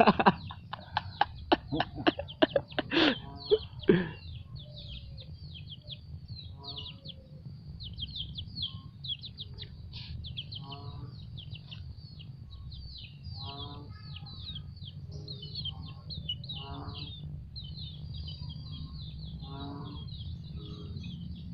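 Outdoor ambience of many small birds chirping steadily, with a short pulsed animal call repeating every second or two under a low steady rumble. A quick flurry of clicks and knocks, the loudest sounds, fills the first four seconds.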